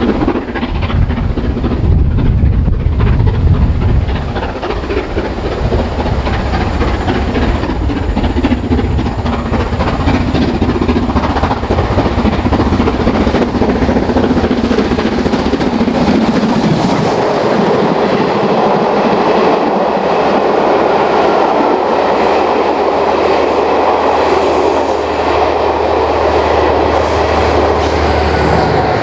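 Steam-hauled passenger train of coaches rolling past, wheels clicking over the rail joints. Heavy wind rumbles on the microphone through roughly the first half.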